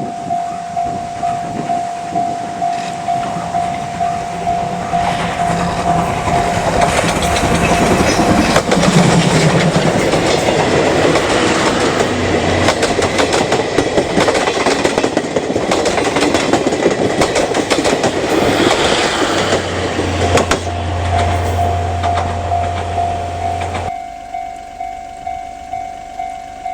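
Level crossing alarm bell ringing in steady, even strikes, about one and a half a second. A steam-hauled train of C57 steam locomotive and coaches passes over the crossing: loud rail noise and rapid wheel clacking grow from a few seconds in and drown the bell. The train noise cuts off sharply a few seconds before the end, leaving the bell ringing alone.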